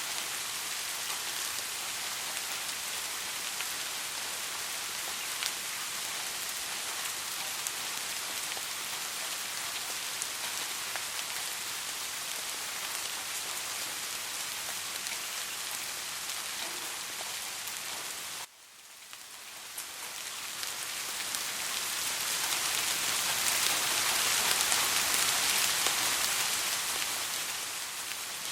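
Soft, steady rain, a dense patter of drops. About two-thirds of the way through it drops out suddenly for a moment, then swells back up, louder for a few seconds, before settling again.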